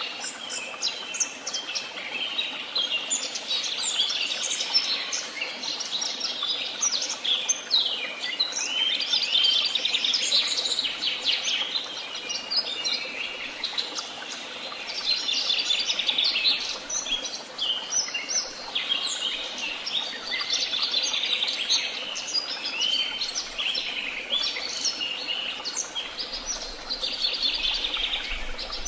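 A chorus of many songbirds singing at once in woodland, with dense overlapping chirps, trills and quick whistled notes.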